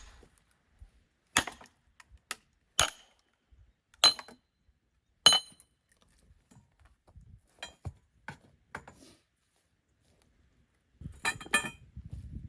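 Sharp wooden clacks with a short ringing, about six spaced over the first five seconds, then a few fainter clicks and a brief clatter near the end: pieces of split hardwood firewood knocking together as they are handled and tossed.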